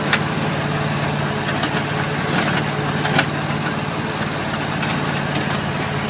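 Tractor engine running steadily at idle, a constant low hum with a few short clicks or knocks over it.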